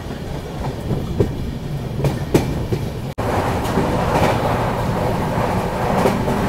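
Railway running noise in two short clips. First a passing freight train's wagons rumble along the track with a few sharp clacks. Then, after a cut about three seconds in, the steady rumble and rattle of a moving Indian Railways general-class passenger coach is heard from inside.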